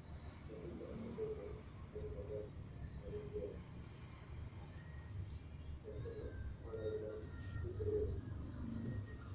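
Birds chirping: short, high, rising calls a few times, over a steady low background rumble.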